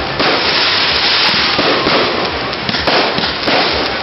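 Campfire crackling loudly, with many sharp snaps and pops over a dense hiss.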